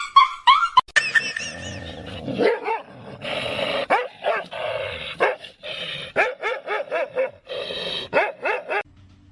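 A dog barking over and over in quick runs of short barks and yaps.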